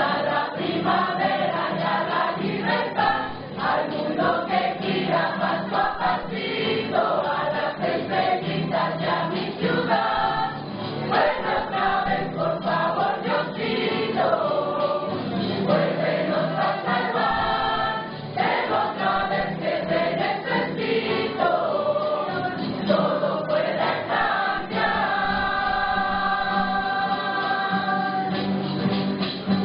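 A choir singing a song, the voices holding one long chord near the end.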